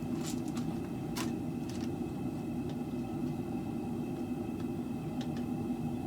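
Propane forge burner running with a steady, even roar, with a couple of faint metallic clicks in the first second or so.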